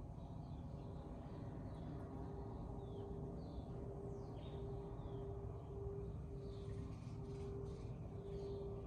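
Small birds chirping repeatedly with short, downward-sliding calls over a steady low hum and a faint background rumble.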